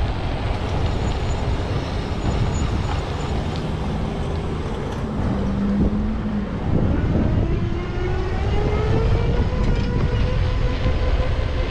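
City street traffic heard while riding, with heavy low wind rumble on the microphone; a motor's whine rises in pitch in the second half.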